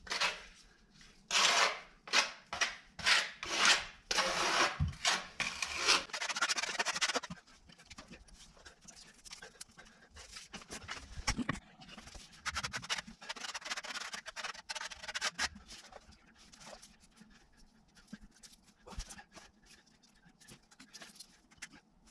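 Rhythmic back-and-forth rasping strokes of a hand tool on wood, about nine strokes over the first seven seconds, then quieter scattered scraping and light knocks as the work slows.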